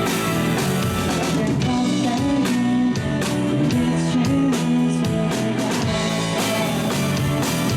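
A live rock band playing, with electric guitar and a drum kit keeping a steady beat.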